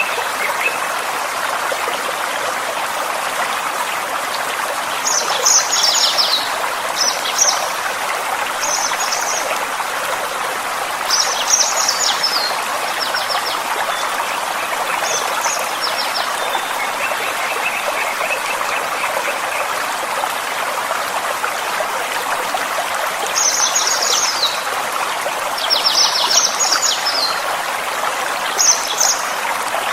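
Gentle forest stream flowing steadily. A songbird cuts in every few seconds with short clusters of high, quick chirps.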